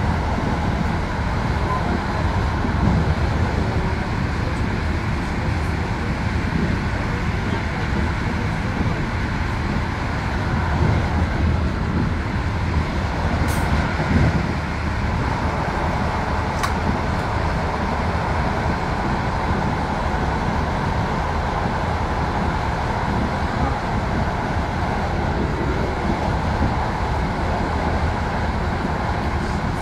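Steady running noise of an Intercity passenger train heard from inside the carriage: a continuous low rumble of wheels on rails, with two brief sharp clicks about halfway through.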